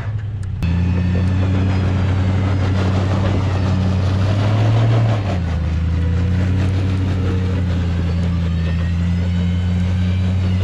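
Truck engine running steadily at a low, even pitch under light load. It cuts in abruptly just after the start, rises a little about four seconds in, and settles back down about a second later.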